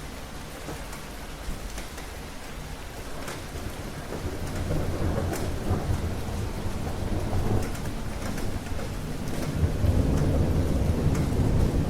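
Steady rain with scattered drops ticking, under a low rolling rumble of thunder. The rumble builds about a third of the way in and swells again near the end.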